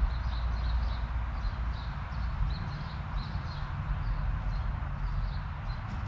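Small bird chirping: short high chirps, two or three a second, over a low steady rumble.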